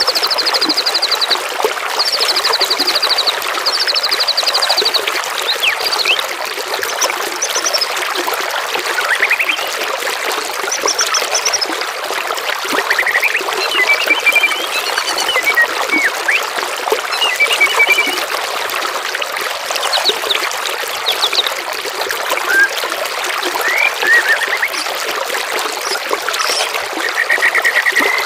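Steadily trickling, splashing water with songbird calls over it: three quick high trills in the first five seconds, then scattered short chirps and whistles.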